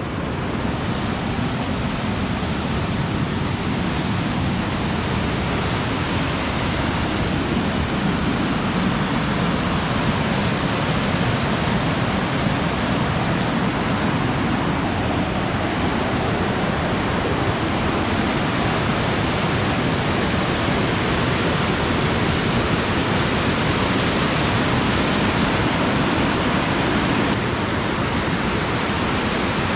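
Waterfall rushing close up: a loud, steady roar of falling water with no let-up.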